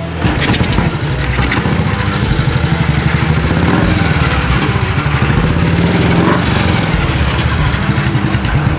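BSA B31's single-cylinder 350 cc four-stroke engine running, its exhaust beating in a quick, even rhythm.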